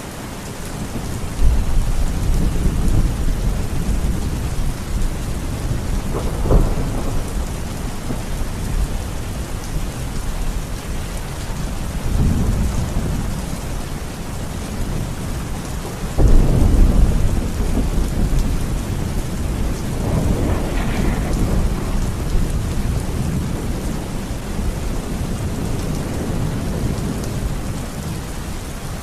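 Heavy rain falling steadily through a thunderstorm, with several rolls of thunder: one begins a second or so in, a sharp crack comes near seven seconds, the loudest rumble starts about sixteen seconds in, and another follows a few seconds later.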